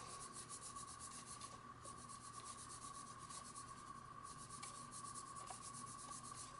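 A block of rod-grip wax rubbed quickly back and forth over an EVA foam fishing-rod grip: a faint, rapid scraping rub that breaks off briefly twice. A faint steady tone sits under it.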